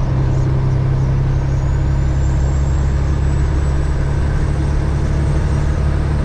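Caterpillar 3406E inline-six diesel in a Freightliner FLD120 rumbling steadily at cruising speed, a constant low drone with a faint high whine that rises slightly about a second in.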